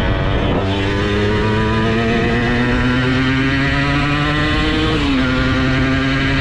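Simson S51 single-cylinder two-stroke engine, bored out to 85cc, under hard acceleration: a brief break in the note about half a second in as it changes gear, then the pitch climbs steadily. A short drop in pitch comes about five seconds in, and the engine then pulls on at a nearly steady high note.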